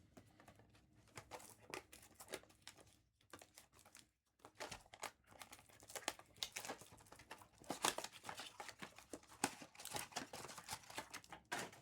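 Topps Chrome foil card pack wrappers crinkling and being torn open by hand: a dense run of crackles, briefly quieter about three to four seconds in, then busier again.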